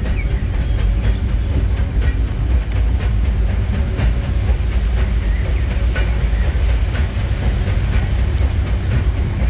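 Steam-hauled narrow-gauge passenger train running, heard from aboard a passenger car: a steady low rumble of the wheels on the track, with a few faint clicks.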